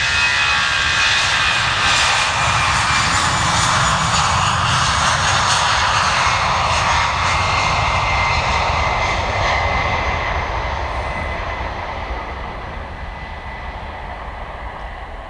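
Airbus A319 jet engines running loud, a rushing roar with a high whine that drops slightly in pitch; from about ten seconds in the sound fades steadily as the airliner moves away.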